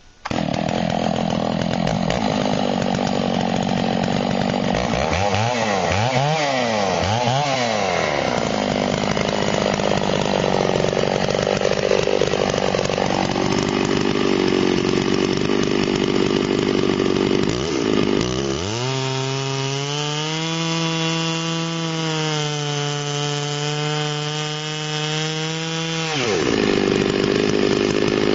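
Chainsaw mill running as it saws lengthwise through a log, slabbing out 4x4 posts. The saw engine starts up right at the beginning and rises and falls in pitch several times a few seconds in. It then runs steadily, dropping to a lower pitch for several seconds near the end before picking up again.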